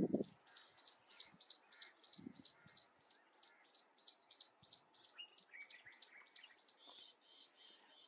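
A small bird's high, thin chirp, repeated evenly about three times a second, each note sliding down in pitch; near the end the notes turn harsher. A low thump comes right at the start.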